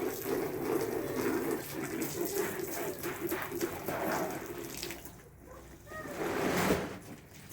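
Water running and splashing steadily. It eases off briefly about five seconds in, then picks up again.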